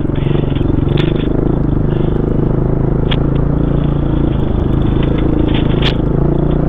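Single-cylinder four-stroke enduro dirt bike engine running under load on the trail, its pitch rising and falling as the throttle opens and closes, with a few sharp clicks and clatter mixed in.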